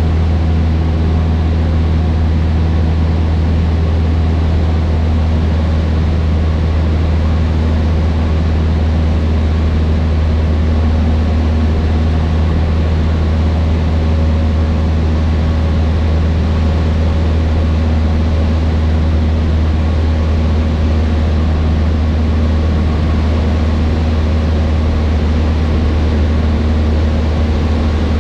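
Cessna 152's four-cylinder Lycoming O-235 engine and propeller droning steadily in cruise, heard from inside the cockpit.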